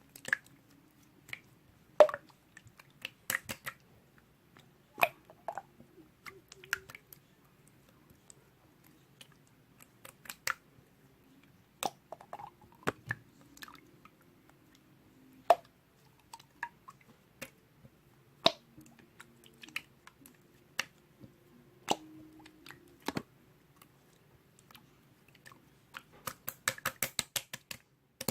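Slime being squeezed and stretched by hand, giving off scattered sticky pops and clicks a second or more apart, then a quick run of crackling clicks near the end.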